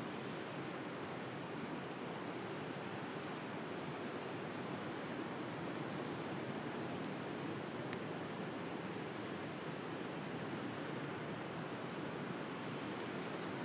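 Steady wash of sea surf together with a wood fire burning, its firewood giving occasional faint crackles and one sharper pop about eight seconds in.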